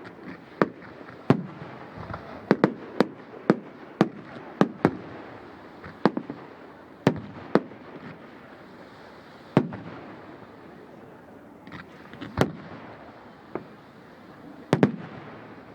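Fireworks display: a quick run of sharp bangs from bursting shells, thinning out to a few single bangs in the second half.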